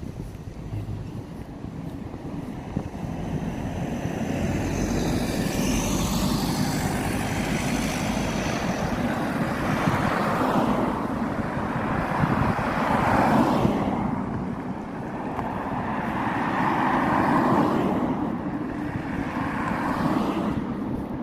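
Road traffic passing close by: a series of cars and other vehicles go past one after another, each swelling and fading, the loudest about 13 and 17 seconds in.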